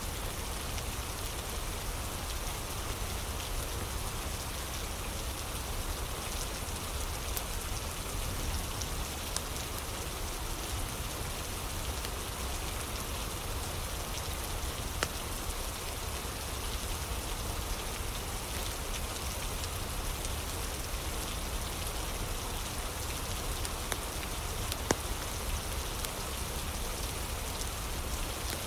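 Steady rain, with scattered sharp crackles from a wood fire; two louder pops, one about halfway and one near the end.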